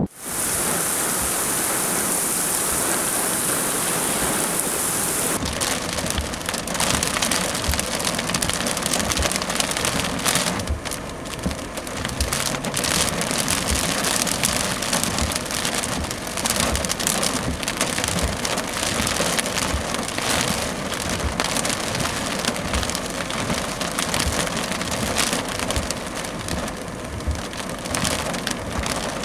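Heavy rain on a car, a dense crackle of drops striking the roof and glass. The first five seconds or so are a smoother steady hiss before the sound changes to the crackle of drops.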